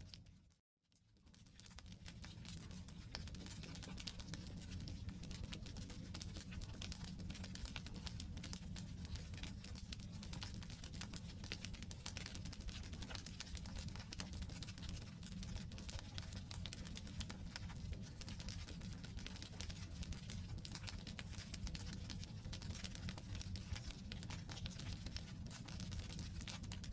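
Wood campfire burning, with dense crackling and popping over a steady low rumble of flames. The sound drops out briefly about half a second in, then carries on.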